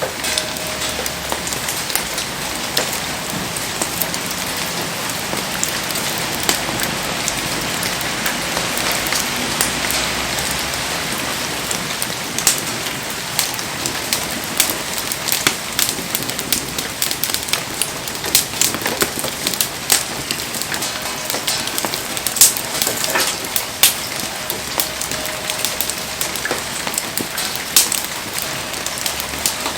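Heavy rain falling steadily, with frequent sharp pops and crackles, the louder ones mostly in the second half.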